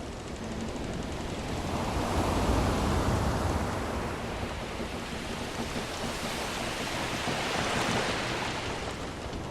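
Sea waves washing in two slow surges: a deeper one swelling about two to three seconds in, then a hissier one near the end.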